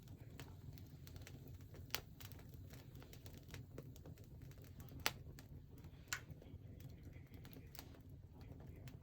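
Wood fire crackling: irregular small snaps with a few sharp pops, the loudest about two and five seconds in, over a low steady rumble.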